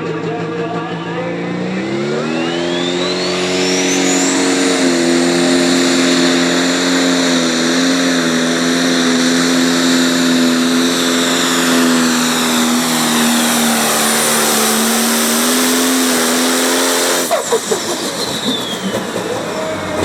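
Turbocharged diesel pulling tractor at full power on a pull: the engine climbs to high revs with the turbo whine rising, holds steady under load for about fourteen seconds, then the throttle is chopped near the end and the turbo whine falls away as the engine drops to a rattling idle.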